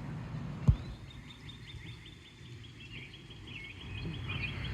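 A bird singing a long run of quick, repeated chirping notes, over low wind rumble on the microphone. A single sharp thump about a second in.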